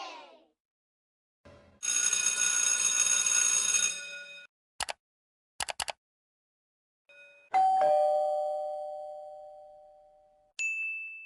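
A run of separate short stock sound effects. First comes about two seconds of ringing made of many steady tones, then a few sharp clicks. Next a two-note chime is struck, its lower note following just after the first, and rings out over about three seconds. Last comes a single high ding that fades away.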